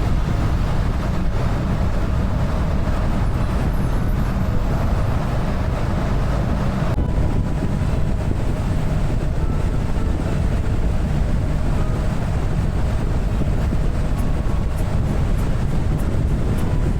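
BMW R1300 GS boxer-twin engine running at road speed under wind and road noise: a steady low rumble.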